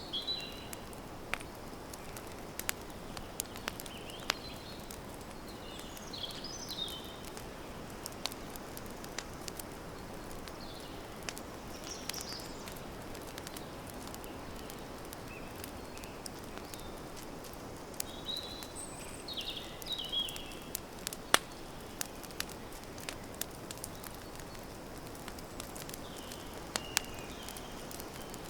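Campfire crackling: a steady hiss with many sharp pops, one louder pop about two thirds of the way in. Small birds chirp in short high phrases every few seconds.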